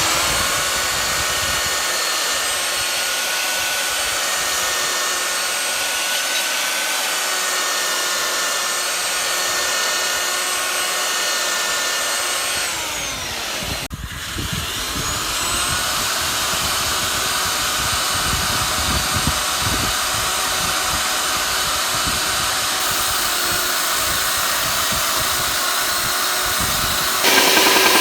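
Handheld electric power tool running steadily at full speed. About halfway through it winds down, its pitch falling, and a second or so later it starts up again. Near the end it gets louder and rougher.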